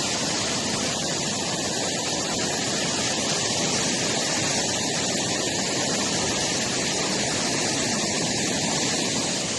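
Fast-flowing floodwater rushing down a flooded rambla, a steady, even rush with no let-up.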